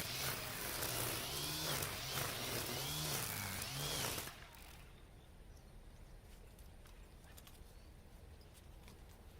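Battery-powered string trimmer (Makita 40V split power head with nylon line) cutting weeds, its whir rising and falling in pitch as the line meets the growth. About four seconds in it stops abruptly, leaving only faint ticks.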